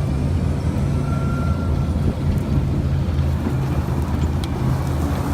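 Engine running steadily at a constant low pitch, with wind noise on the microphone.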